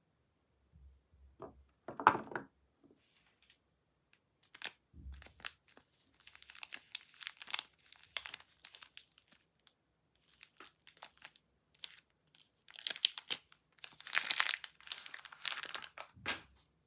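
Soap wrapper crinkling and tearing as bars of soap are unwrapped by hand, in irregular bursts that grow denser in the middle and near the end.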